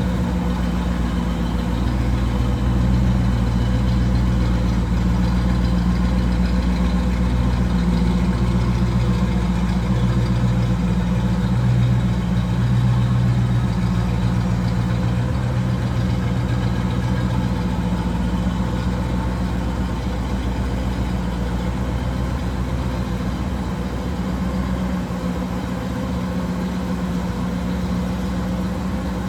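1968 Pontiac Firebird's engine idling steadily, a little louder for a stretch in the first half.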